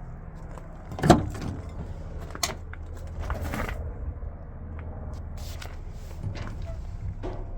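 Hino J08 inline-six diesel idling with a steady low hum. A sharp clunk about a second in and a few lighter knocks and clicks break over it.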